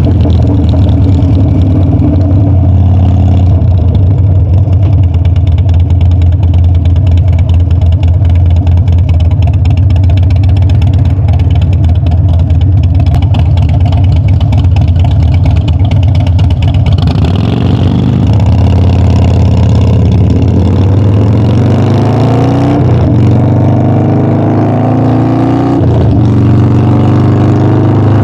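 Harley-Davidson Dyna's V-twin engine and exhaust while riding, holding a steady note for most of the first two-thirds. Then it accelerates with a rising pitch and shifts up twice near the end.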